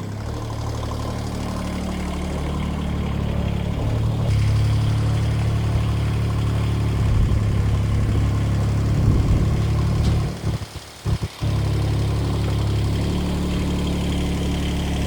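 Ford TW10 tractor's diesel engine running steadily. Its engine speed steps up about four seconds in and settles back near the end, with a brief dip in the sound about two-thirds of the way through.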